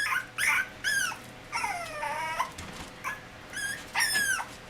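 Dog whining: a string of short, high-pitched whimpers, with one longer drawn-out whine about two seconds in.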